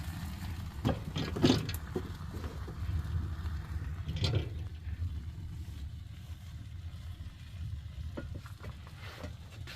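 Wood-burning fireplace with a steady low rumble of the fire, broken by a few sharp knocks and clanks, the loudest about a second and a half in and another around four seconds, as the fireplace door is shut.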